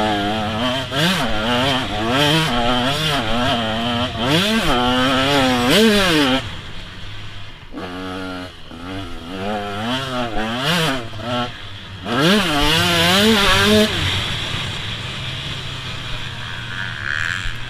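A two-stroke 125 cc motocross bike engine (KTM SX 125) revving hard and falling back again and again through the gears, the pitch climbing and dropping about once a second. It eases off twice, about six seconds in and again near the end.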